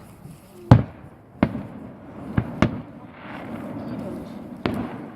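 Consumer fireworks going off: about five sharp bangs, the loudest about a second in, then others at roughly one and a half, two and a half and nearly five seconds, with a stretch of hiss between the later bangs.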